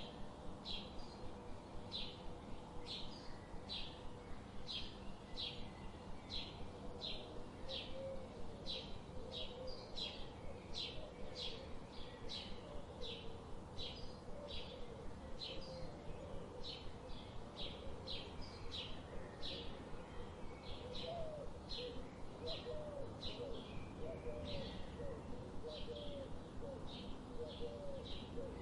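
Forest birds calling: one repeats a short high chirp about twice a second, and about a third of the way in a lower wavering call joins in, over a faint steady background hiss.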